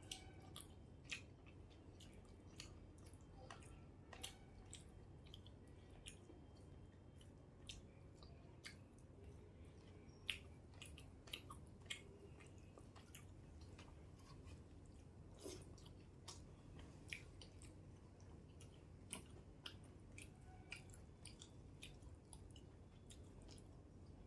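Close-miked eating sounds: a person chewing a mouthful of rice and curry, with wet smacks and sharp mouth clicks coming at irregular intervals over a faint steady background.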